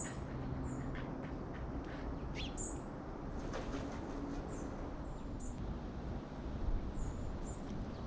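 Small birds chirping: short, high calls scattered irregularly, over a steady low background rumble.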